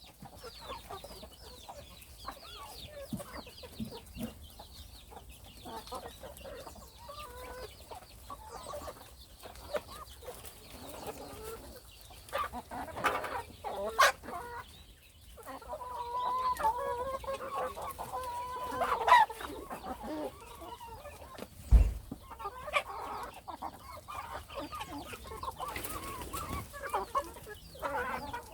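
Chickens clucking and calling, including a drawn-out call in the middle, with scattered sharp knocks and a dull thump about three-quarters of the way through.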